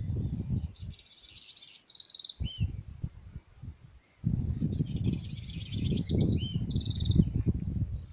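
A songbird singing two phrases of about two seconds each, a few seconds apart: quick high notes running into a fast trill. Under the song is an irregular low rumbling noise, strongest in the second half.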